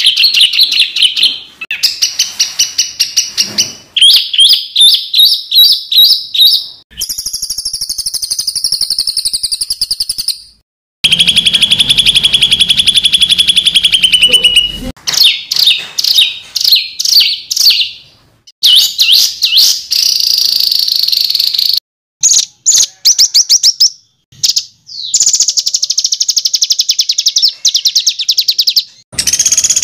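Songbird calls cut together in quick succession: fast runs of sharp, rapidly repeated high notes, the rough rapid-fire 'tembakan' type of call. Each run stops abruptly and a different call pattern takes over every few seconds.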